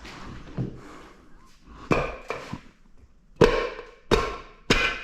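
Metal engine parts from a torn-down GM 2.4 Ecotec, its pistons and rings, being handled on a bench: a string of sharp, irregular clinks and knocks, metal set down on metal.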